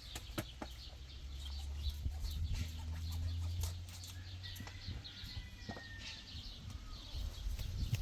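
Chickens clucking amid scattered clicks and knocks, with a low steady hum from about a second in until about four seconds.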